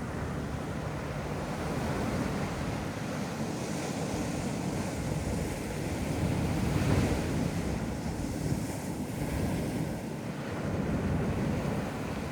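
Ocean surf breaking and washing up a beach, swelling twice, about seven seconds in and again near the end, with wind rumbling on the microphone.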